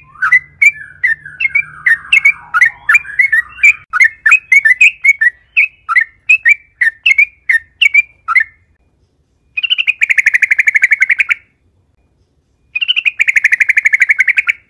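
Yellow-vented bulbul calling: a quick series of short, sharp chirps, three or four a second, for about eight seconds. After a pause come two fast rattling trills of about two seconds each.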